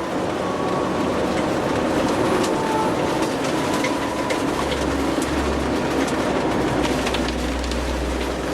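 Steady road noise of a car being driven, a low rumble with scattered light ticks and clicks throughout.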